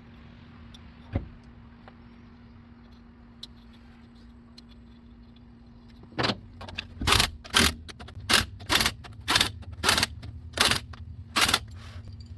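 Impact wrench on wheel lug nuts, run in about nine short rattling bursts over some five seconds, beginning about halfway through. Before that there is only a steady low hum.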